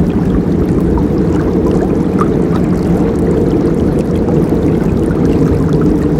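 River water rushing steadily, a deep, even flow with scattered small gurgles and splashes on top.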